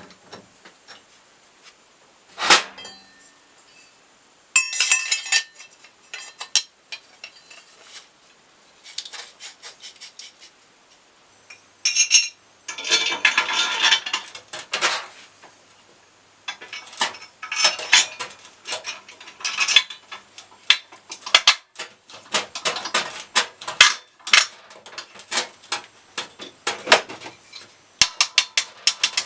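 Metal parts and hand tools clinking, knocking and scraping during hand assembly work, in irregular bursts. Near the end comes a fast run of even clicks.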